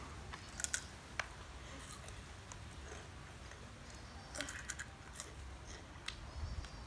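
Scattered soft crunches and crackles of a crispy tomato snack being bitten and chewed.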